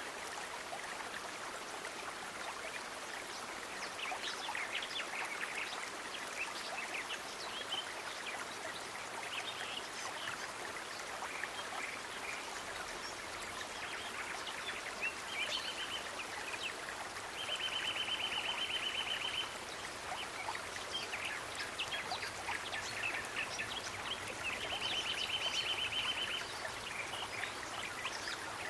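Nature ambience: a steady hiss of flowing water with many short, high chirps from birds or insects. Three rapid, buzzing trills stand out: a short one about halfway through, then two of about two seconds each.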